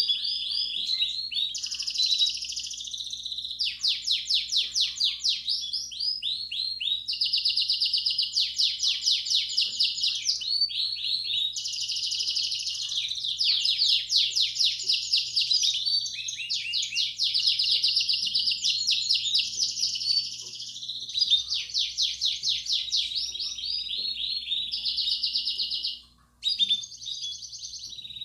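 Belgian canary singing a long, continuous song of fast trills and rolling phrases in the bell-like "campainha" style used as a training song for young canaries. The song breaks off for a moment about 26 seconds in, then resumes.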